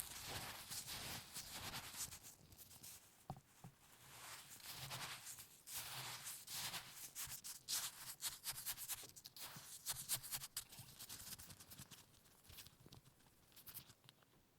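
Irregular crunchy rubbing and scraping of hands working cooking ingredients close to the microphone, thinning out near the end.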